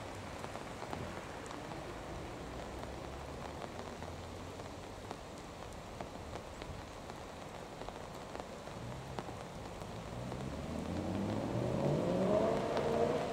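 Steady hiss of rain on wet tarmac, with a BMW's engine running faintly as it drives away. From about ten seconds in, a car engine grows louder, its pitch rising as it accelerates, and it is the loudest sound near the end.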